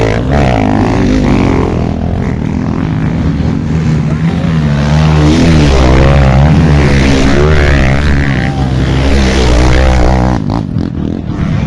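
Off-road dirt bike engines revving and blipping, their pitch rising and falling again and again as the bikes work through a trail section.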